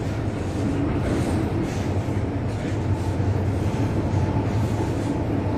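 MTR Kwun Tong Line M-Train running on the metro line: a steady rumble of wheels and running gear on the rails.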